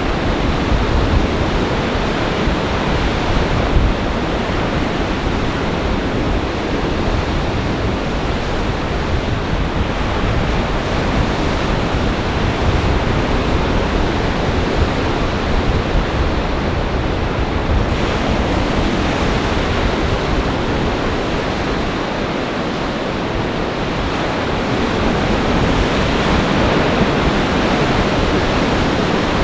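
Storm waves crashing on the Lake Michigan shore in a gale, a continuous rush of surf with strong wind buffeting the microphone. It grows a little louder near the end.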